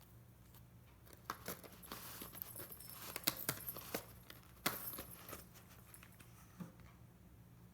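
Rustling and sharp clicks of a cat batting and pouncing on a toy, a busy flurry for a few seconds that dies down, with one more knock near the end.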